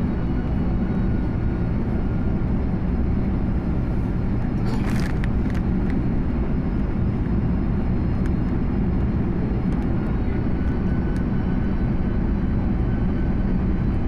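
Steady engine and airflow noise of an airliner heard inside the passenger cabin during descent, with a brief rustle about five seconds in.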